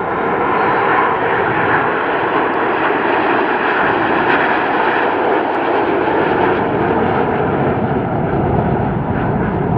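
Loud, steady jet noise from a formation of BAE Hawk T1 jet trainers flying a display manoeuvre.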